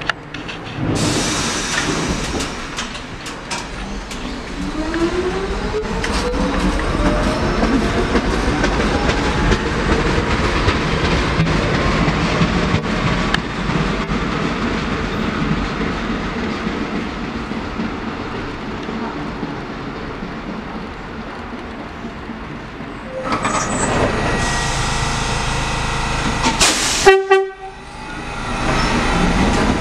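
Train running past on the rails with wheel clatter and a whine that rises in pitch, as when it picks up speed. Near the end comes a short, loud horn blast.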